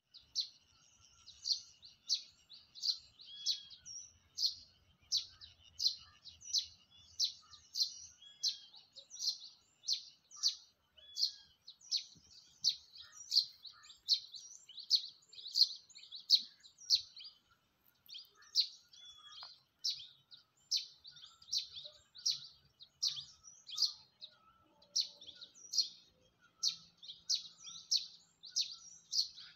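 A bird repeating a short, high chirping call over and over, about three calls every two seconds.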